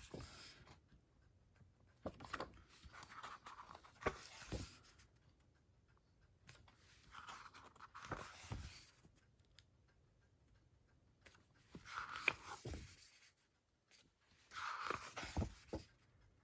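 Paper pages of a booklet being turned by hand: a handful of short rustles, a few seconds apart.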